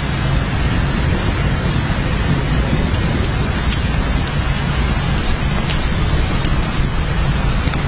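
Steady heavy rain: a dense, even hiss with many scattered sharp drop ticks, over a continuous deep low rumble.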